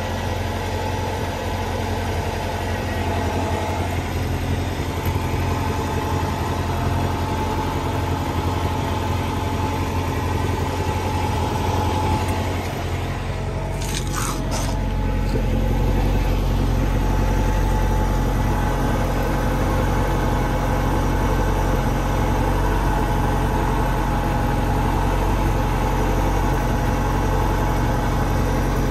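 Saab 900 Turbo's turbocharged four-cylinder engine idling steadily, heard from beneath the car, its low hum growing louder past the middle. A brief rustle of handling noise comes about halfway through.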